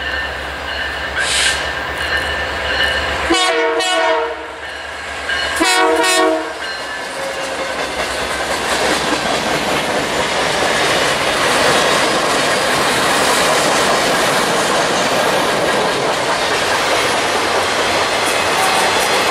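Diesel locomotive horn sounds two long blasts a few seconds in, then the train's cars roll past with a steady rumble and the clickety-clack of wheels over rail joints.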